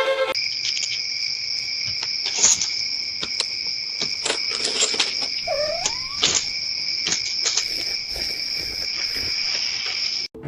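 Steady, continuous high insect trill, like crickets at night, with scattered small clicks and one short rising call about halfway through; it cuts off suddenly just before the end.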